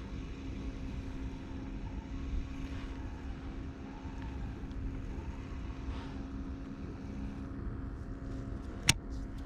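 Steady low engine hum of a boat motor running, with a single sharp click near the end.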